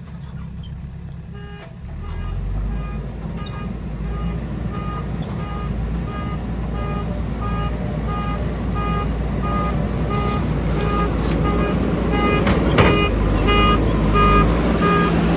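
JCB 3DX backhoe loader's diesel engine running under load, getting louder about two seconds in. From then on a short electronic beep repeats a little under twice a second, typical of the machine's reversing alarm. There is a single sharp clank near the end.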